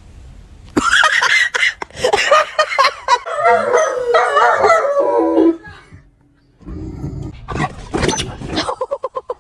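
A dog howling and yipping in wavering, pitched calls for about five seconds, then a few sharp knocks and a quick run of short pulses near the end.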